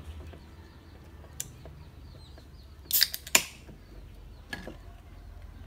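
A beer being opened: two sharp cracks a moment apart about three seconds in, the first with a short fizz, over faint chicken clucking.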